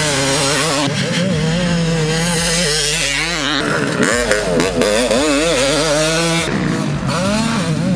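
Yamaha YZ250 single-cylinder two-stroke dirt bike engine revving, its pitch rising and falling again and again. The bike's engine is a highly modified one breathing through a Pro Circuit works-style pipe.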